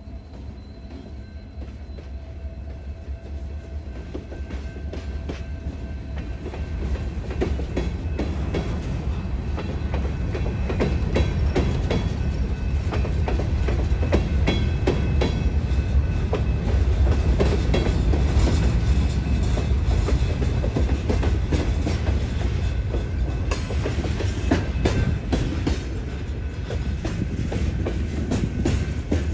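Freight train rolling past: a steady heavy rumble with many wheel clicks over rail joints, growing louder over the first ten seconds or so and then holding.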